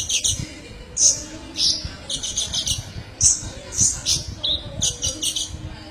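Kolibri ninja, a sunbird, singing: high, sharp chirps and quick stuttering runs of repeated notes, in short phrases that follow one another throughout.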